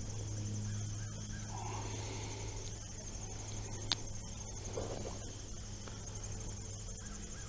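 Steady chirping of insects with a low steady hum underneath, and one sharp click about four seconds in.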